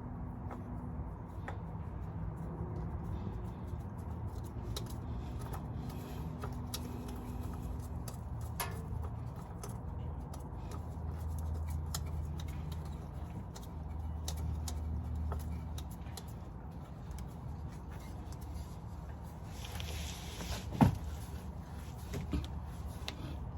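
Low steady background rumble with scattered light clicks and scrapes from hand work on the car's parts, a brief hiss shortly before one sharp knock about 21 seconds in.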